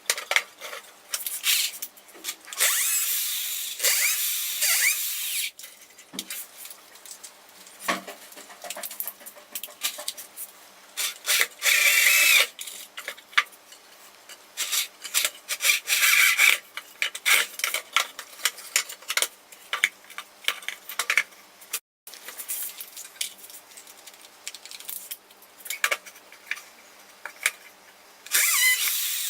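Screws being driven into old wood with a power drill, in several bursts of a few seconds each with a whining pitch, and knocks and clicks from handling the boards between them.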